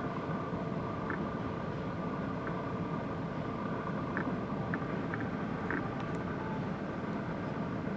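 Steady rumble of motor vehicle noise with a constant hum, and a few brief faint chirps scattered through it.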